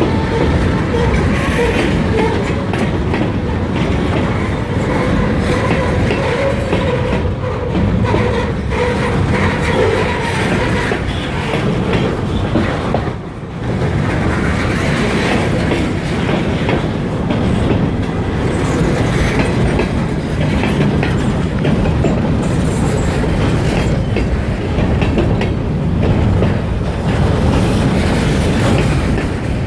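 Freight train rolling past close by, its wheels clicking over the rail joints, with a steady, loud rumble. A held tone sounds over the first ten seconds or so, and the noise dips briefly about 13 seconds in.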